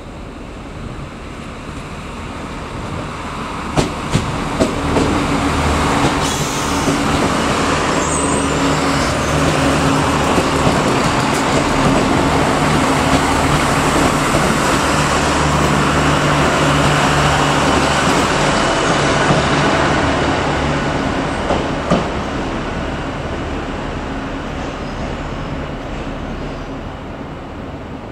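Irish Rail 29000 class diesel multiple unit running past on the station tracks: the underfloor diesel engines hum steadily under the noise of the wheels on the rails. The sound swells as the cars come alongside, then fades as the train draws away, with a few sharp clicks about four seconds in.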